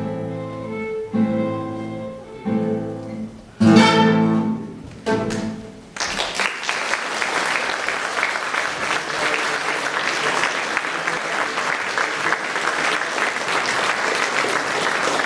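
Violin and classical guitar duo playing the last few sustained chords of a piece, the loudest about four seconds in, with the music ending about six seconds in. Then audience applause.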